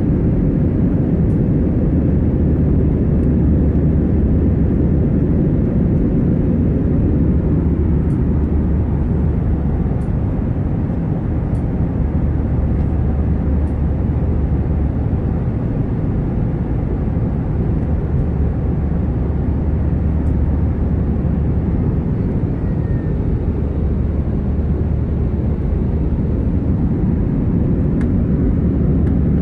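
Steady low drone of an airliner in flight heard from inside the cabin: engine and airflow noise, with a few faint ticks.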